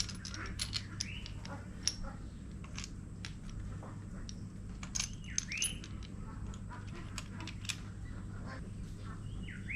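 Scattered light metallic clinks and ticks of tools and engine parts being handled, over a steady low hum. A bird gives a short chirp three times, about a second in, near the middle and at the end.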